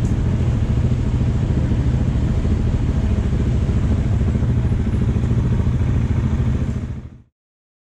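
Dirt bike engine running steadily under way, fading out quickly about seven seconds in.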